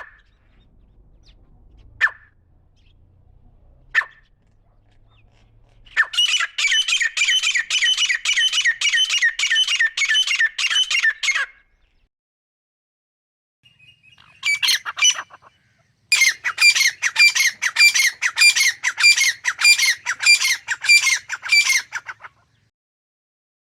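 Grey francolin calling: three single sharp calls about two seconds apart, then two long runs of rapid, harsh repeated notes, about three a second, separated by a short pause with a few broken notes.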